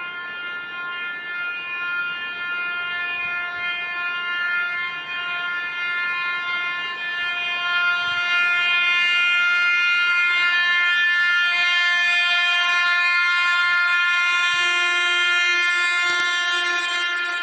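Train horn sounding one long unbroken blast, a chord of several steady tones, growing louder over the first half and then holding loud.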